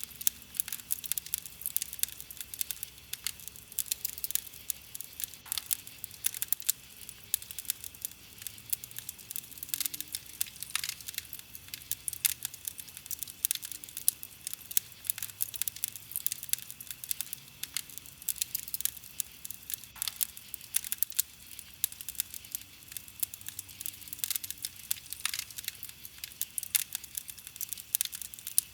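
Campfire of burning wood crackling: a dense, irregular stream of small sharp pops and snaps, with a few louder cracks scattered through.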